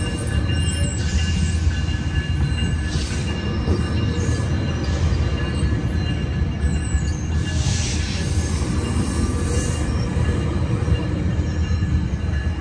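Metrolink bilevel commuter coaches rolling slowly past close by, with a steady low rumble of wheels on rail. High-pitched wheel squeals come and go, loudest about eight seconds in.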